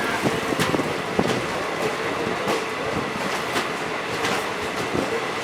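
Train running on the rails, its wheels clicking over the rail joints at an uneven beat over a steady rumble.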